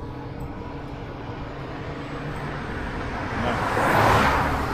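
A passing motor vehicle, its noise swelling to a peak about four seconds in and then easing, over a steady low rumble of wind and road noise on the moving microphone.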